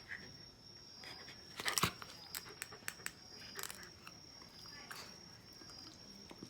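Shiba Inu biting and playing with a plastic bottle cap: a quick cluster of clicks and knocks about a second and a half in, then scattered lighter clicks, over a faint steady high whine.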